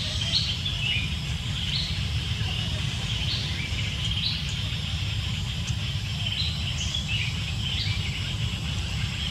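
Outdoor ambience: a bird chirping over and over in short high notes, about one a second, over a steady low rumble.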